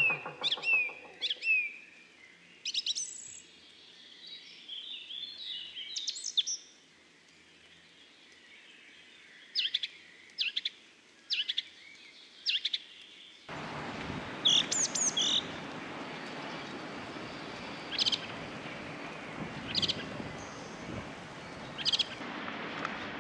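Birds chirping in short, high calls scattered through. About two-thirds of the way in, a steady outdoor background noise starts suddenly and continues under the calls.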